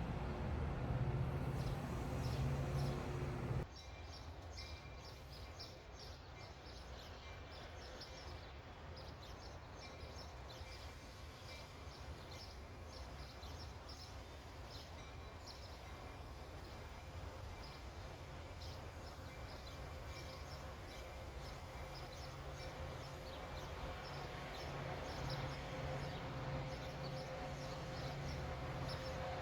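Outdoor city ambience by a river: a low mechanical hum that cuts off abruptly about three and a half seconds in, leaving a steady background of distant noise with many short high chirps. The low hum builds again near the end.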